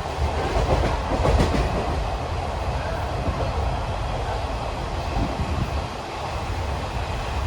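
Indian Railways passenger train running along the line, heard from inside an empty coach: a steady rumble of wheels on rails, with a short run of clattering clicks about a second in.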